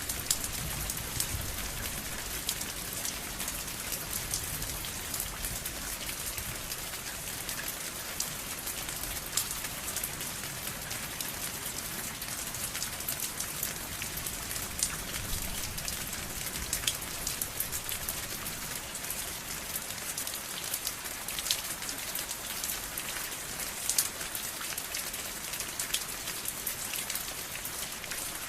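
Steady rain falling on a surface, an even hiss with many distinct drops tapping throughout.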